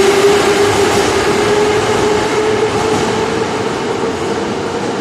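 81-717/714 'nomernoy' metro train running, a steady rumble with its motor whine rising slightly in pitch as it gradually gets quieter.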